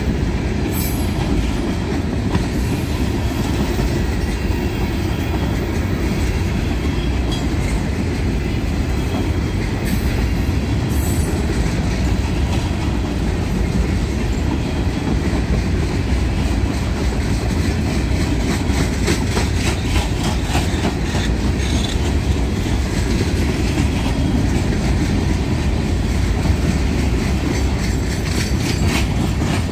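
Empty covered grain hopper cars of a freight train rolling past close by: a steady heavy rumble with wheels clacking over the rail joints. The clacking comes in quicker runs about twenty seconds in and again near the end.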